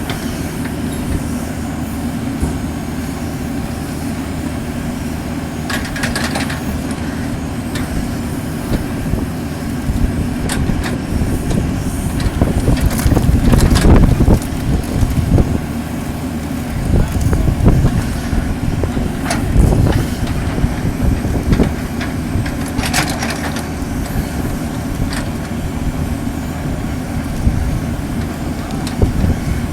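John Deere 310J backhoe's diesel engine running, swelling louder twice in the middle as it is worked harder, with a few sharp knocks now and then.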